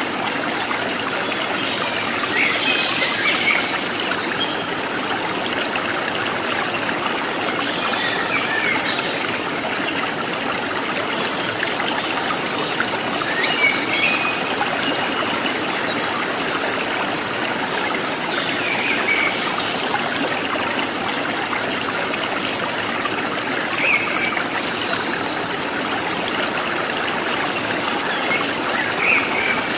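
Stream water trickling and splashing steadily, with short bird calls every few seconds.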